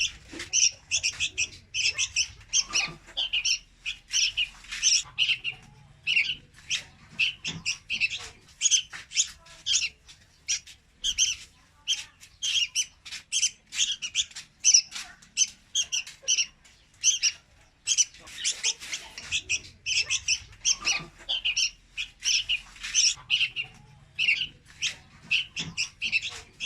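Young red-whiskered bulbul calling without pause: a dense run of short, high notes, several a second.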